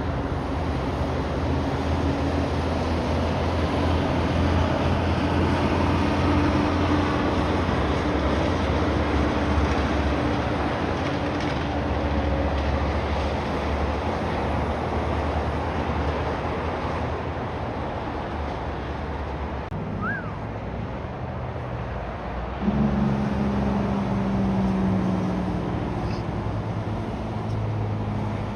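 Heavy trucks driving past on the road: diesel engine drone and tyre noise throughout, with the engine tones shifting as different rigs pass. About 23 seconds in, a louder engine suddenly comes in close.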